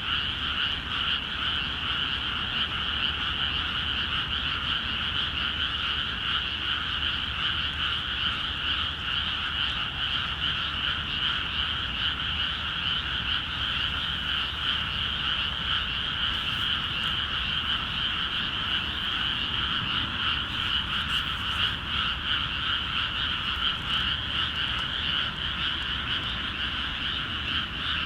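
A dense chorus of many frogs calling at once, their calls merging into one steady, unbroken din.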